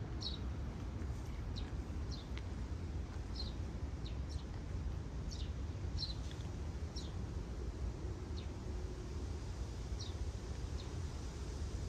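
Small birds chirping: about a dozen short, high, falling chirps at irregular intervals, growing sparser in the second half, over a steady low background rumble.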